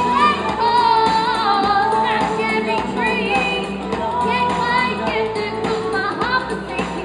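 A woman singing a song over backing music, her voice wavering in pitch over a steady accompaniment.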